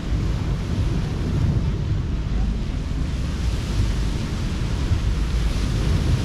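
Ocean surf washing onto a beach in a steady wash of noise, with wind rumbling on the microphone.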